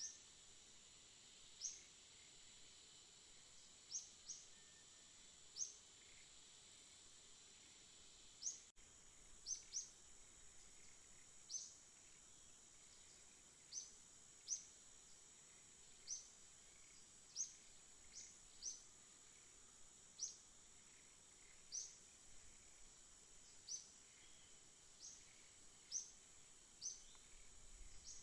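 Faint, short, high bird chirps, repeated about every one to two seconds, over a steady high-pitched insect drone.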